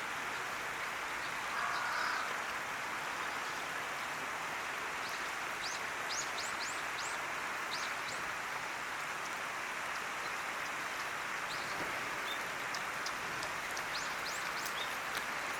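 Birds calling, many short high chirps scattered in clusters over a steady rushing background noise.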